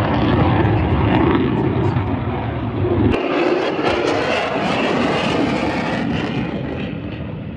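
Fighter jet's engines running loud overhead during a display manoeuvre. The deep rumble drops out abruptly about three seconds in, and the noise then fades gradually.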